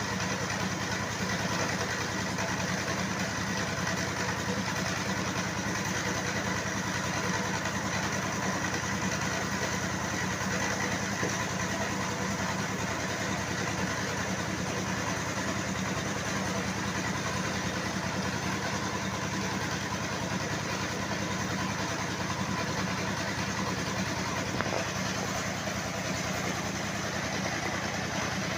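Sawmill machinery running steadily: a continuous engine-like drone with a steady higher tone over it, unchanging throughout.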